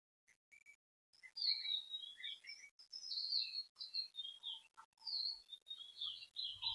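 Small birds chirping: many short, high chirps that start about a second in and go on in a quick, irregular run.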